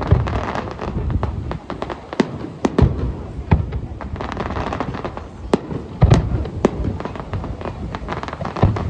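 Fireworks display going off: an irregular string of sharp cracks and bangs, with heavier low booms at the start, about six seconds in and near the end.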